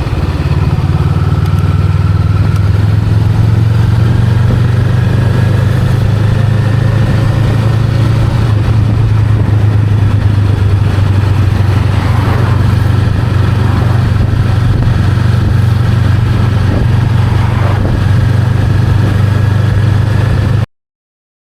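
Honda Rebel 500's 471 cc parallel-twin engine running at a steady, low note, rising slightly about a second in and then holding even. The sound cuts off suddenly about a second before the end.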